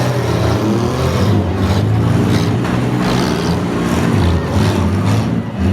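Several demolition derby vehicles' engines revving at once, pitch rising and falling, with a few short knocks mixed in.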